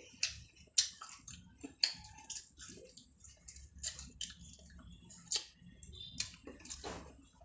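A person eating rice close to the microphone: wet chewing with irregular sharp mouth smacks and clicks.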